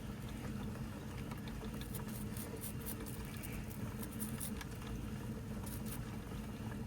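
Faint scattered small clicks and patter over a steady low hum: handling noise from wet, freshly de-rusted metal depth gauge parts.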